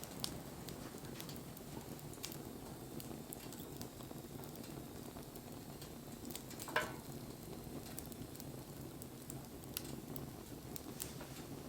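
Wood fire burning, with scattered small crackles and one louder snap about seven seconds in.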